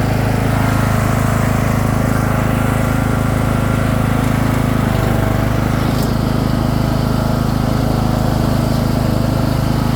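Lawn tractor engine, swapped into a Craftsman II, running steadily with a brief dip in speed about halfway through.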